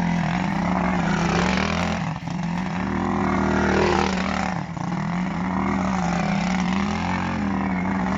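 Quad bike engine running steadily under way, with short dips about two and four and a half seconds in.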